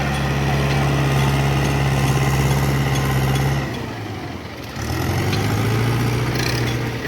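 Tractor diesel engine running with a steady low drone. About three and a half seconds in it drops away sharply, then returns a second later at a slightly lower pitch.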